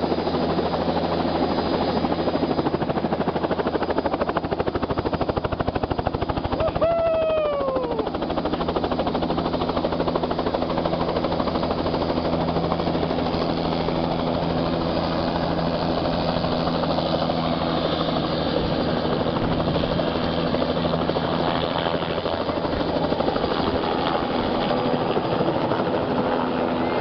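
Helicopter rotor and engine running steadily, with a fast even rotor beat throughout. About seven seconds in, a short tone falls in pitch over about a second.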